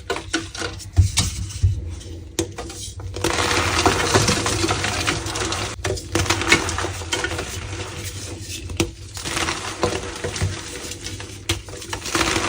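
Blocks of powdery gym chalk being crushed and squeezed, crunching and crumbling with squeaks. The first few seconds hold separate sharp cracks, then a dense gritty crackling runs on with short breaks.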